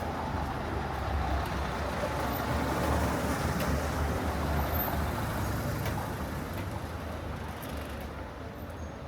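A motor vehicle drives past on the street, its engine rumble and road noise swelling to a peak about three seconds in and then fading away.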